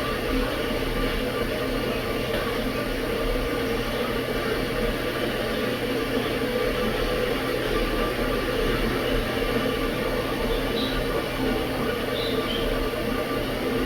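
A tea kettle heating on the boil's approach: a steady rushing hum, unchanging throughout.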